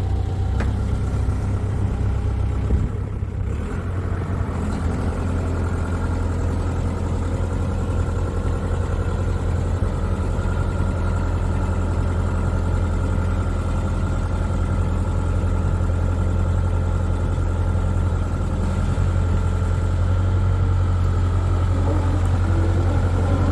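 Hino Super Dolphin truck's F20C V8 diesel engine running steadily with a deep low hum, getting a little louder over the last few seconds.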